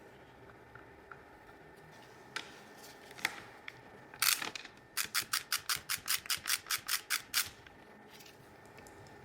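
A few scattered clicks, then a short rasping burst about four seconds in, followed by a quick run of about a dozen sharp, even clicks at roughly five a second from a hand tool being worked on the steering rack.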